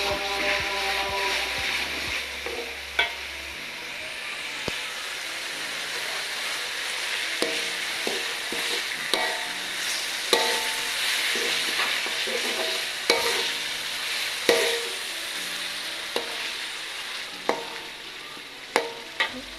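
Blended spice paste sizzling in hot oil in a wok while it is stirred, with scattered clicks and scrapes of the stirring utensil against the pan. The paste is being stir-fried until fragrant.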